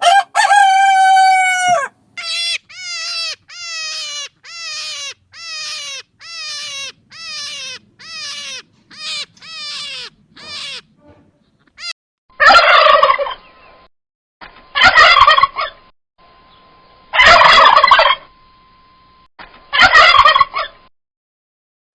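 Domestic animal calls in two runs: first one long call, then about ten short falling calls in a steady row. Then come four loud, harsh calls about two and a half seconds apart.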